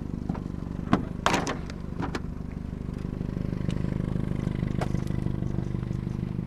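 Vehicle engine idling with a steady low hum, with a few sharp knocks and a clatter about one and two seconds in.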